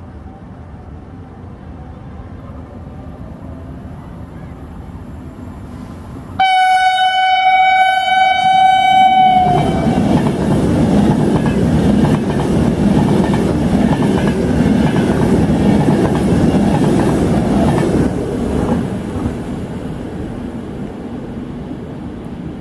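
A passenger train approaching and passing: one long, steady horn blast of about three seconds as it nears, then the loud rush and clatter of the passing carriages, which fades away over the last few seconds.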